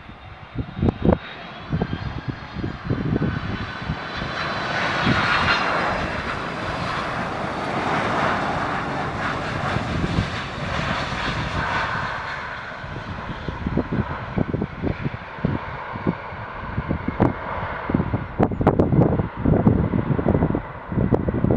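Jet engines of a Boeing 767 freighter passing close by on landing, a whine with high tones swelling for several seconds and then fading. Wind buffets the microphone with low thumps before and after the pass.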